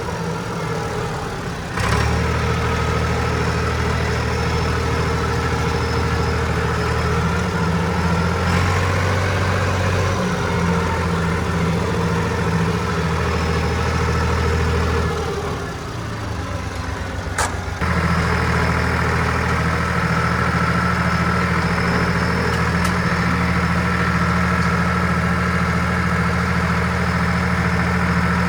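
Tractor engine running steadily at a low idle-like pace. It drops away briefly a little past halfway, with a sharp click, then comes back at full strength.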